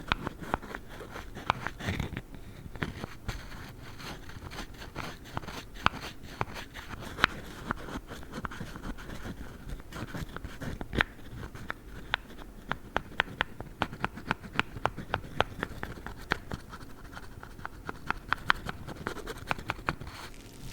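Squishy dumpling toy handled close to the microphone, giving a dense run of quick, sharp scratching clicks.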